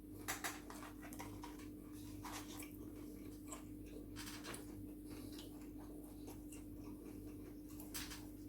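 Faint eating sounds from a mouthful of fried chicken: soft, irregular chewing clicks and crackles, a little louder about half a second in and again near the end, over a steady low hum.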